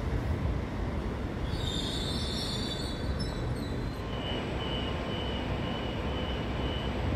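Train wheels squealing on the rails over the steady low rumble of a passing train. The squeal is loud and high from about a second and a half in until about four seconds. After that a fainter high tone comes and goes.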